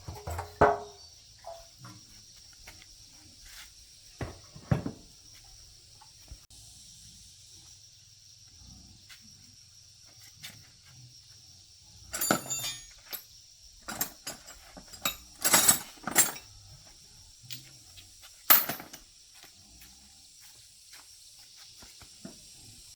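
Metal motorbike parts and hand tools clinking and knocking now and then, with a few louder clanks, over a steady high hiss.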